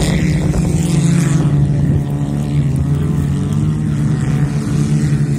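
Engines of old cars racing round a dirt track in a wreck race, running hard in a steady drone that rises and falls a little in pitch.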